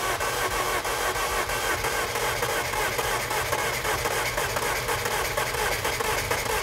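Rover 25's four-cylinder K-Series petrol engine running steadily just after it fired up from cranking, having stood unused for years. It sounds to the owner like it is running on only three of its four cylinders.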